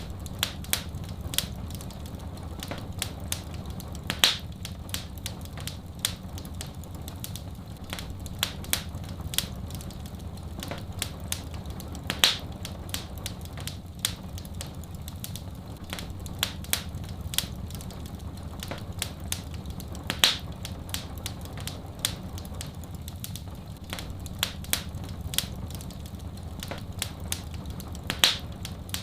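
Wood fire crackling in a fireplace, with many irregular sharp snaps and a louder pop about every eight seconds, over a steady low rumble.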